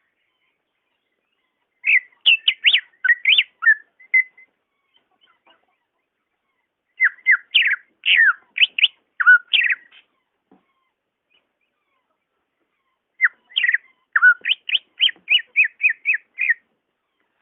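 A green leafbird (cucak ijo) sings three bursts of quick, clear whistled notes with short pauses between them. The last burst ends in a fast run of repeated notes.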